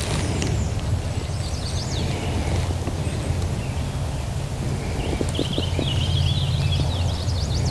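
Small songbirds chirping and twittering, a short phrase about two seconds in and a longer run from about five seconds in, over a steady low rumble.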